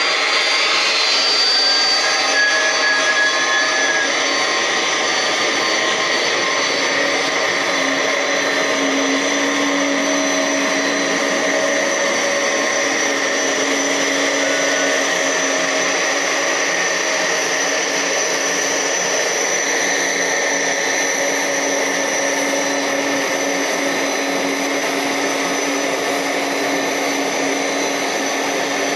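Airbus A330 freighter's jet engines whining steadily at idle as the aircraft taxis in.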